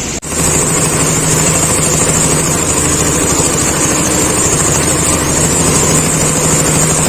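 An engine running steadily at idle-like speed with an even hum, starting just after a brief cut.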